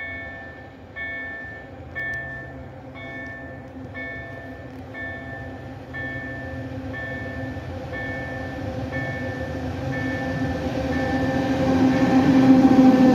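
An approaching locomotive hauling a freight train: its rumble and a steady low engine hum build up, louder and louder, peaking near the end as it reaches the listener. Through most of it a level-crossing warning bell dings about once a second.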